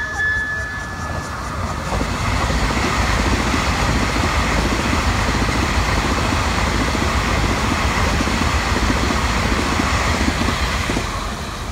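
Electric passenger train passing close by: a steady rush of wheels on rails and running gear. It builds over the first couple of seconds, holds loud, and eases off near the end as the cars go by.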